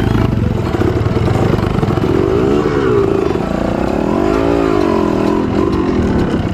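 Trail motorcycle engine running at low speed over rough ground. It revs up and drops back twice, about two and a half and four and a half seconds in.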